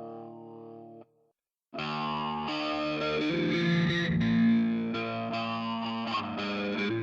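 Instrumental music on six-string electric guitar with effects and distortion over four-string electric bass. The music fades, stops for about half a second near the start, then comes back in.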